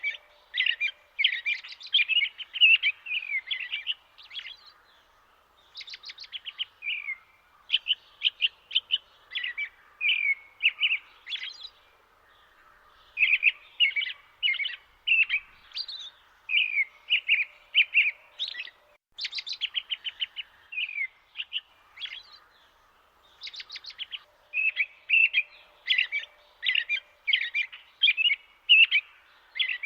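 Small birds singing: quick runs of short high chirps and trills in phrases a second or two long, with brief pauses between them.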